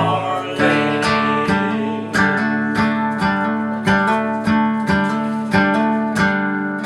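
Acoustic guitar strumming chords after the last sung line, with regular strokes, as the song's closing instrumental.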